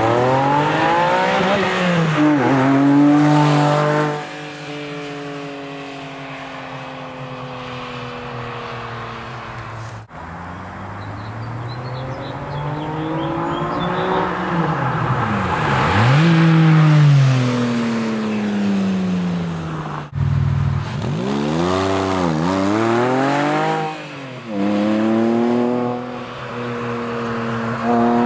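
Porsche 997 Carrera's flat-six engine through an aftermarket exhaust, revving up and down repeatedly: rising sweeps followed by long falling ones, with a run of quick blips near the end. The sound breaks off abruptly twice, about ten and twenty seconds in.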